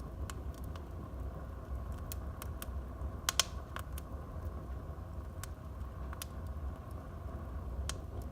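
Wood fire burning in a fireplace: a steady low rumble with scattered sharp crackles and pops, the loudest a double crack about three and a half seconds in.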